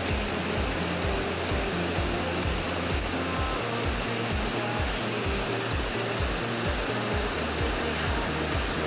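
Steady hiss of falling rain, with music underneath it: a regular low beat and a few held notes.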